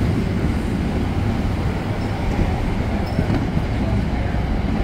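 NJ Transit passenger coaches rolling past along the platform, a steady low rumble of wheels on the rails.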